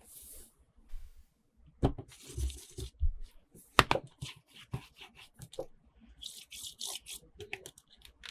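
Toy packaging being handled and opened by hand: bursts of rustling with many short clicks and taps, the sharpest about two and four seconds in.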